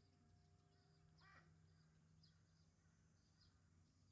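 Near silence with faint high bird chirps every second or so, one louder falling chirp about a second in, over a low steady hum.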